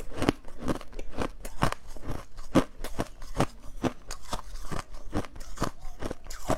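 Ice being bitten and chewed close to the microphone: a steady run of sharp crunches, about three a second.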